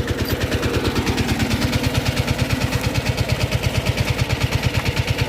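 A Sanedo mini tractor's 12 HP water-cooled diesel engine running steadily, with an even, rapid thumping beat of about ten firing pulses a second.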